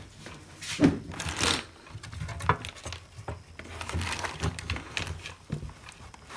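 Small parts and tools being handled on a workbench: irregular clicks, taps and light rattles, with a low steady hum underneath.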